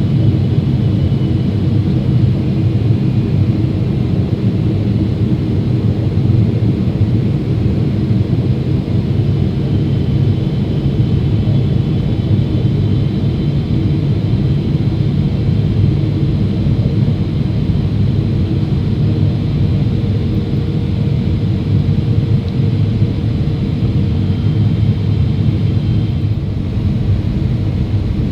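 Boeing 777-300ER in flight: a steady, loud low rumble of its GE90 engines and rushing air, with a few faint high whines over it and no change throughout.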